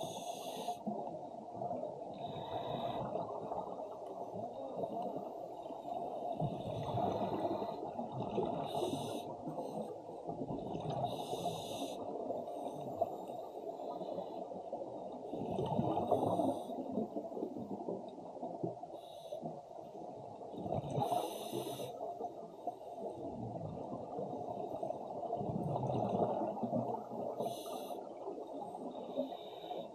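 Scuba breathing underwater: a steady bubbling rush from the regulator, with a short high hiss every few seconds as the diver breathes through the regulator.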